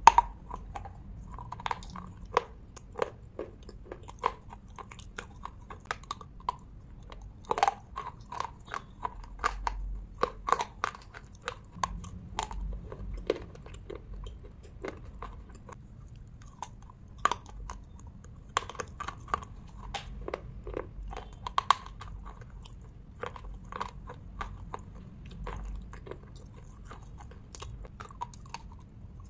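Slate pencils being bitten and chewed: sharp, irregular crunches and snaps, several a second at times, with gritty chewing between them.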